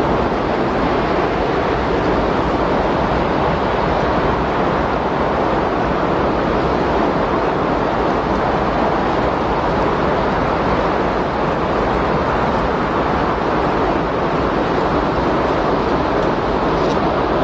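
Windstorm: steady rushing wind noise with no gusts, lulls or breaks.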